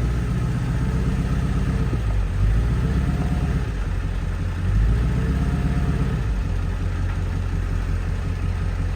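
Pulling vehicle's engine working under load as it tows a stuck tractor out of a hole by chain. It swells and eases off in three pushes, then runs steadier for the last few seconds.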